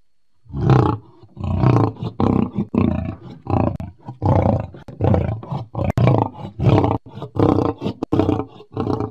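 Lion roaring: a loud first call about half a second in, then a long run of short, evenly spaced calls, about three every two seconds.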